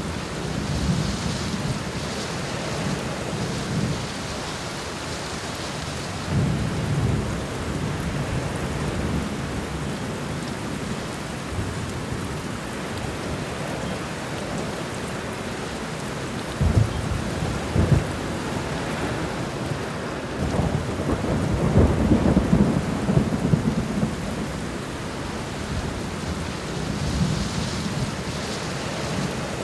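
Thunderstorm: steady rain with thunder rolling in low rumbles every several seconds. Two sharp cracks come about halfway, followed by a longer, louder rumble.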